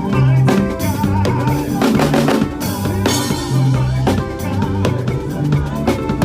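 Drum kit playing an upbeat makossa praise groove, with bass drum, snare and rimshots, over bass guitar and keyboard.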